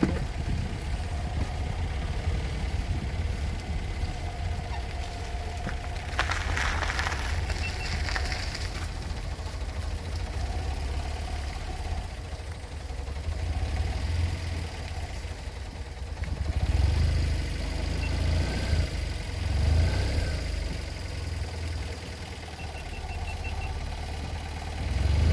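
A vehicle engine idling with a steady low rumble, with a brief noisier sound about six seconds in.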